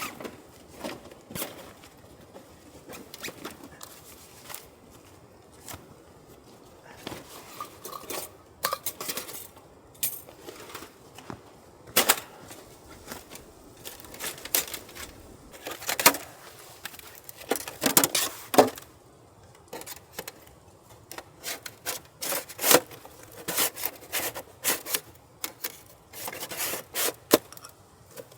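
Camping gear being handled: irregular clicks, knocks and scrapes as things are moved about and set down, busiest in the second half.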